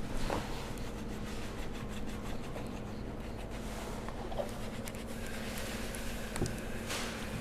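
Hand rubbing and scratching on a car headlight's rubber seal while it is cleaned, with scattered small clicks over a steady background hum.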